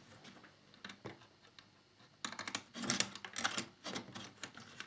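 Plastic parts of a scale model motorcycle being handled and taken apart: a few faint clicks, then from about two seconds in a quick run of sharp clicks and rattles.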